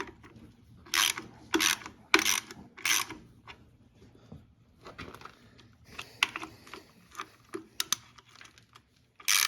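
Hand socket ratchet clicking as a bolt is backed out: four quick ratcheting strokes about a second in, then lighter scattered clicks, and one more stroke near the end.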